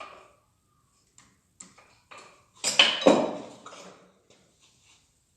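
Small metal engine parts clinking and knocking as they are handled: scattered light clicks, with a louder clatter of metal on metal about three seconds in.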